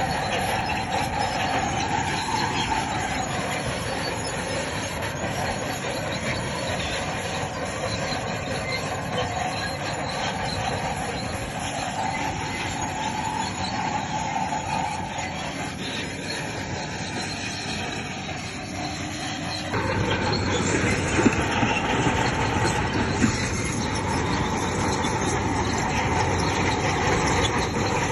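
A bulldozer working, its engine running under the squeal and clatter of its steel crawler tracks. The sound changes abruptly about twenty seconds in, and two sharp knocks follow shortly after.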